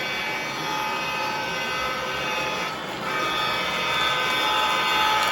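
Lionel O gauge Lehigh Valley diesel locomotive's electronic horn sounding in long blasts, one held until about three seconds in, then a short break and another. Underneath is the steady running noise of the train on the track.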